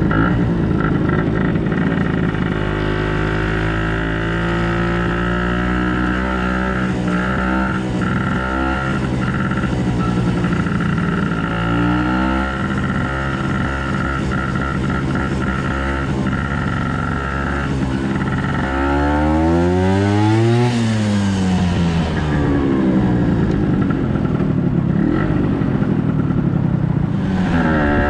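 Tuned Vespa two-stroke engine with a reed-valve intake idling, blipped a few times, then revved up and let back down about two-thirds of the way through. A steady high-pitched whine sits over the idle.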